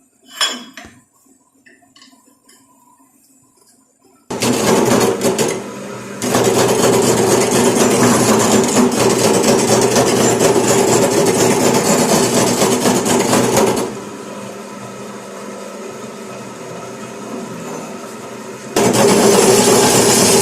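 A single metallic clank, then a power tool starts and runs loudly and steadily on metal. It eases to a lower level for about five seconds before running loud again.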